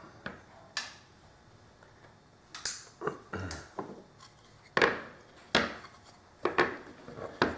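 Scattered knocks and clatters of the table-top pieces being handled and set against each other on a workbench: about nine separate hard taps and clunks, some with a short rattle.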